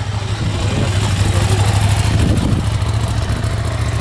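Motorcycle engine running steadily at low revs, a constant low hum.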